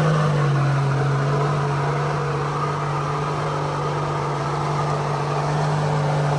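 Off-road vehicle's engine running at a steady speed, a continuous low hum with no change in pitch.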